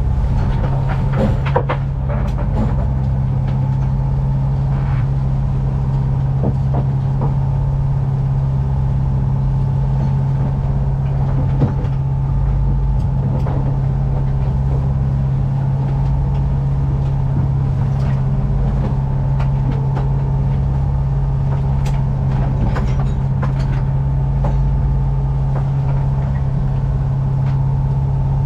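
A sailboat's inboard engine running steadily at constant revs, with a few faint knocks over it.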